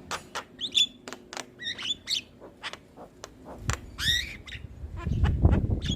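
Javan myna (jalak kebo) calling: a run of sharp clicks and short chirps, with a downward-sweeping whistled note about four seconds in. Near the end a louder low rumbling noise covers the calls.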